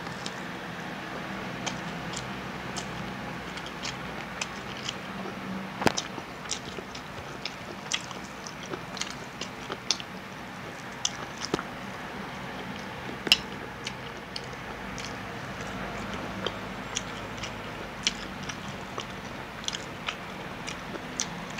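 Close-up eating of fried chicken: chewing and biting with many irregular, sharp crunchy clicks, the loudest about six and thirteen seconds in.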